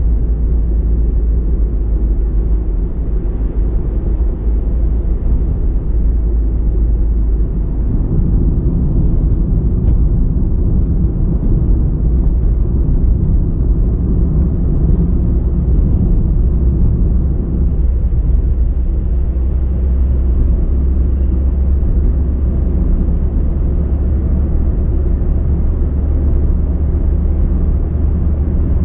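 Car driving at a steady pace: continuous low road and engine rumble.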